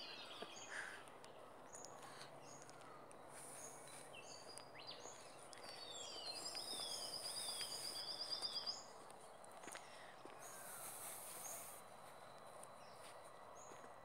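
Faint birdsong: several short descending whistled calls, then a rapid trill in the middle, over the soft rustle of footsteps and clothing.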